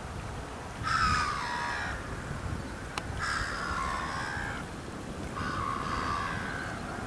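A bird calling three times, each harsh call lasting about a second, with a sharp click about three seconds in.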